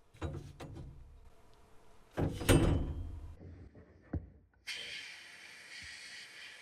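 A few knocks and clunks of hard objects being handled, the loudest clatter about two and a half seconds in, then a sharp click, and just before five seconds a steady hiss of air starts and keeps going.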